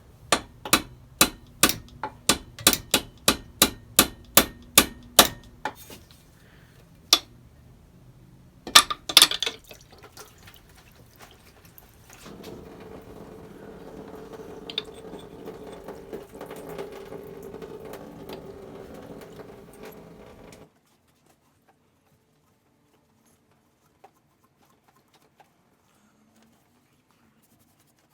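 A quick run of about fifteen sharp metallic taps, like a hammer striking metal, at roughly three a second, then two lone knocks a few seconds later. After that a steady hum runs for about eight seconds and cuts off abruptly.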